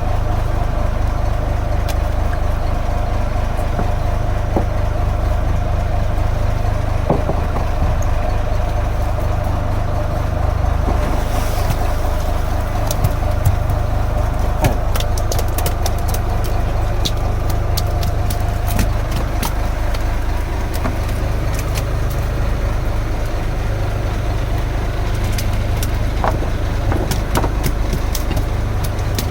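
Wooden fishing boat's engine running steadily with a deep rumble and a constant hum, with scattered light ticks over it.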